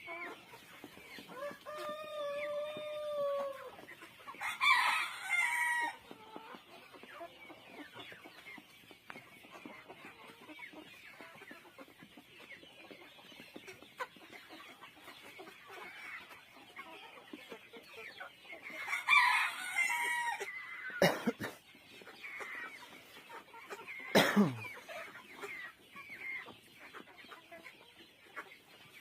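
Chickens clucking, with a rooster crowing about two seconds in and a few louder calls along the way. Two sharp knocks come later.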